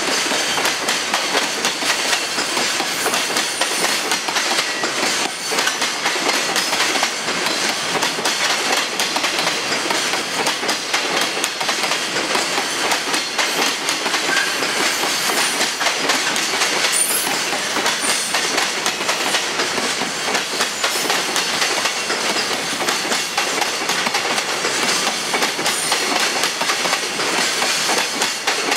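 Freight train hauled by an EF66 electric locomotive rolling steadily past, its wagons' wheels clacking over the rail joints.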